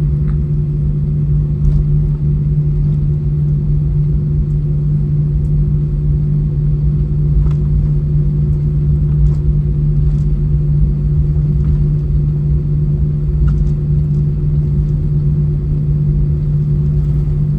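Steady cabin rumble of an Airbus A320 taxiing after landing, with its engines at idle. A constant low hum runs under the rumble, with a few faint clicks from the cabin.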